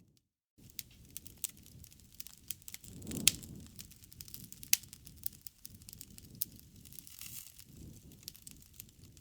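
Wood fire crackling: a dense run of sharp pops and snaps over a low rumble of burning flames, with a louder pop about three seconds in and another a little before five seconds. The sound starts after a brief silent gap at the very beginning.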